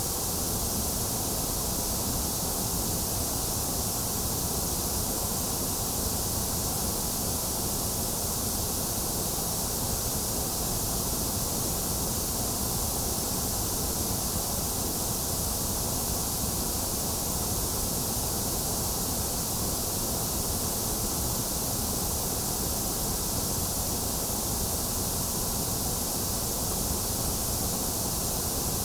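Steady synthetic white noise, an even, unchanging hiss with no breaks or events.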